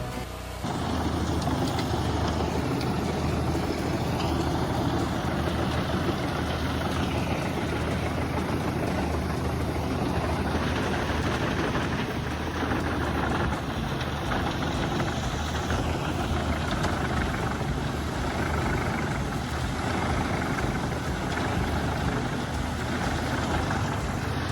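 A heavy machine's engine running steadily under load, starting about half a second in.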